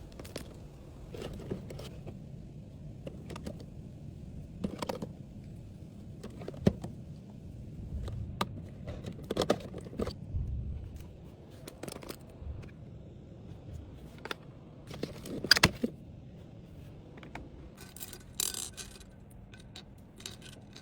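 Small objects being handled and packed by hand: irregular clicks, light knocks and scrapes every second or two, with a brief rustle near the end.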